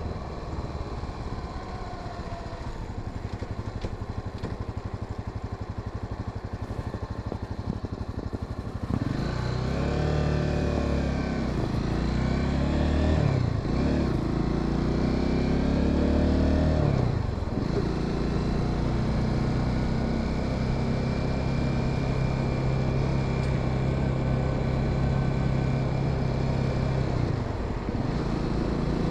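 Honda Sahara 300 motorcycle's single-cylinder engine, heard from the rider's position. It runs low and steady at first. About nine seconds in it pulls away, rising in pitch and dropping back through several gear changes, then settles into a steady cruise with a brief dip near the end.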